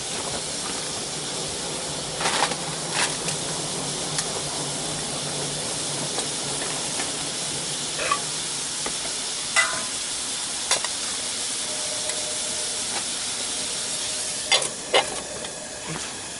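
Bean sprouts, garlic shoots and onion sizzling steadily in a cast-iron skillet, with a scattering of short metallic clicks and knocks from the pan and its lid.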